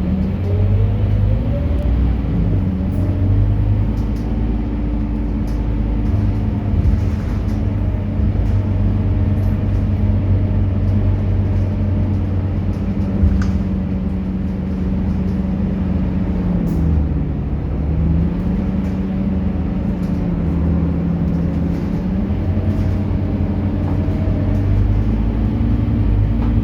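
Scania K230UB single-deck bus's diesel engine running on the move. Its pitch rises in the first couple of seconds, dips about two-thirds of the way through, and rises again near the end as the bus speeds up and slows.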